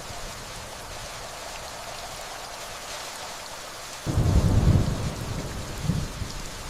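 Steady rainfall with distant thunder: a low rumble breaks in suddenly about four seconds in and dies away after about a second, followed by a smaller rumble near the end.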